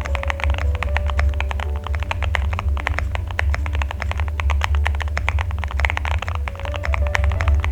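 Fast, continuous typing on a Cycle7 custom mechanical keyboard, fully foamed and fitted with Vertex switches, giving dense thocky keystrokes. Background music with a heavy steady bass runs under it.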